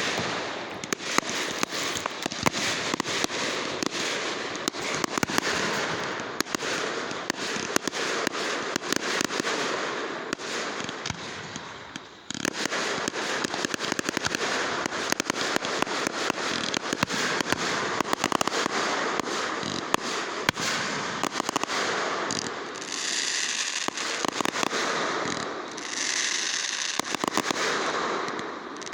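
Firecrackers going off in rapid strings, a dense crackle of sharp pops; the first string fades out about twelve seconds in and a fresh one starts abruptly.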